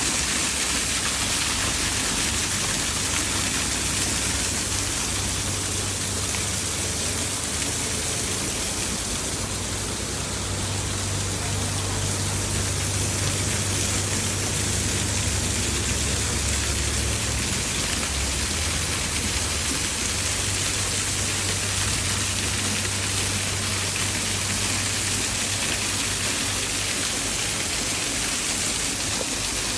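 Waterfall rushing steadily, a loud, unbroken hiss of falling water with a low rumble underneath.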